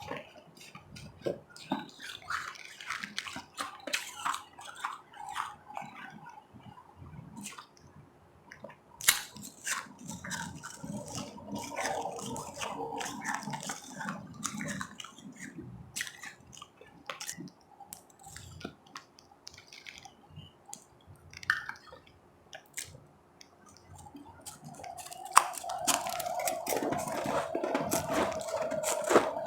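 Ice being chewed and crunched in the mouth, close up: irregular crisp crunches and bites throughout. In the last few seconds a steadier mid-pitched sound joins the crunching and it gets louder.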